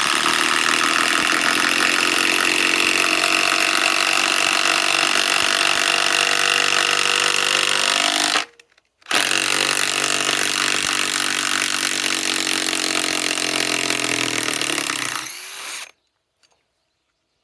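DeWalt DCF891 cordless 1/2-inch mid-torque impact wrench hammering as it drives a large lag screw, in two long trigger pulls: one of about eight and a half seconds, a half-second pause, then another of about six seconds that eases off before stopping.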